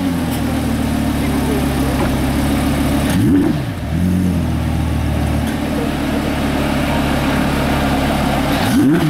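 The 2016 Audi R8's V10 engine idles steadily and is blipped twice, about three seconds in and again at the end. Each blip is a quick rise and fall in pitch.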